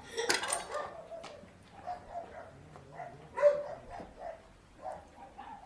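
A dog barking and whining in short calls, with the loudest yelp about three and a half seconds in.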